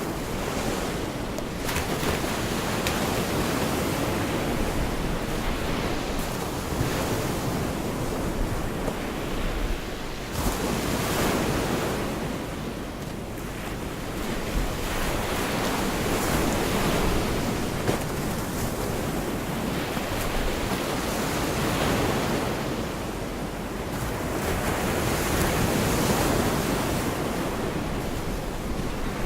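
Gulf of Mexico surf washing onto a beach: a continuous rushing hiss that swells as each wave breaks, several seconds apart, then eases.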